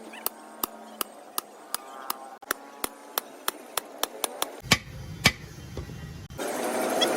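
A hammer striking metal in a steady rhythm of sharp blows, about three a second. About six seconds in, a loud steady rush of noise starts and drowns out the blows.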